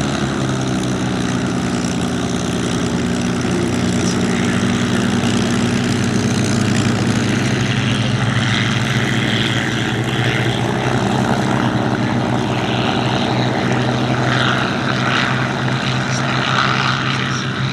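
Piston aero engine of a propeller warbird running steadily at low power: a deep, even engine drone.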